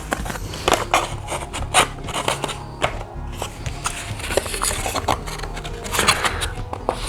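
Cardboard pieces scraping, rubbing and tapping together in irregular bursts as a wall panel is pushed into the slots of a cardboard base, with faint background music underneath.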